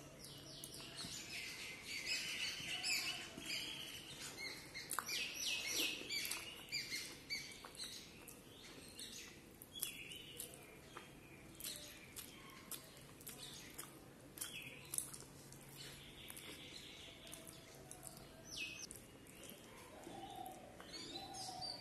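Close-up chewing with many short, wet mouth clicks and smacks, busiest in the first several seconds and sparser after.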